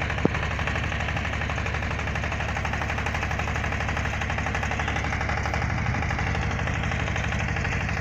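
Drilling rig's engine running steadily with a fast, even pulsing beat, and a single sharp click just after the start.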